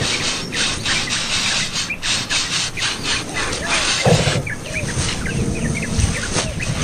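Rustling and scratching noise, then, from about four seconds in, a quick run of short, high cheeps from nestlings begging for food.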